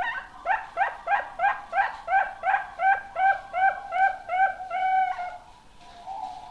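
Young zebra dove (perkutut) singing: a rapid series of about a dozen short cooing notes, about three a second, ending with a longer held note.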